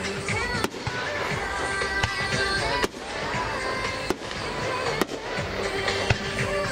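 Aerial fireworks going off, with several sharp bangs about a second apart over a constant crackle and rumble.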